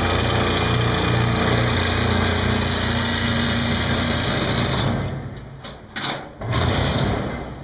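Motor-driven torsionator scroll-bending machine running steadily under load with a low hum as it winds a 1/2-inch steel bar into a scroll. It stops about five seconds in, then two short bursts of running follow near the end.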